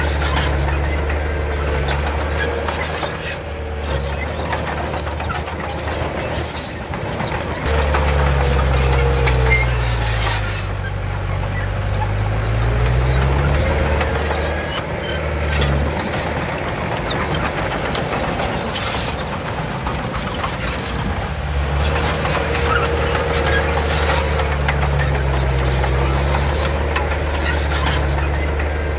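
Komatsu D31 crawler bulldozer working: its diesel engine running under changing load, dipping and rising in pitch a few times, with squeals and clatter from the steel tracks.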